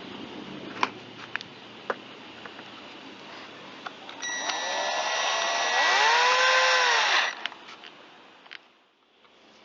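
Cordless drill-driver running screws into the saw's handle mounts: a motor whine that speeds up and slows down for about three seconds, after a few light clicks of parts being handled.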